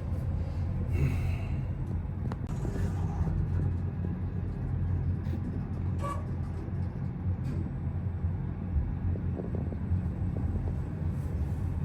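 Steady low mechanical rumble with a few faint knocks over it.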